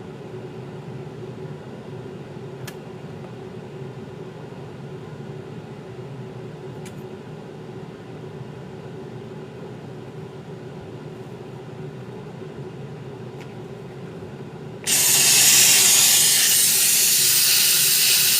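Low steady hum with a few faint clicks, then about fifteen seconds in a loud, steady hiss starts suddenly and keeps going: a hissing tool switched on while the old shoe is taken apart to remove its old glue.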